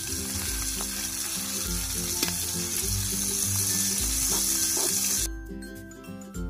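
Squid and shrimp sizzling in hot oil in a pan, with a few clicks of metal tongs against the pan as the squid is turned. The sizzle cuts off about five seconds in, leaving only background music.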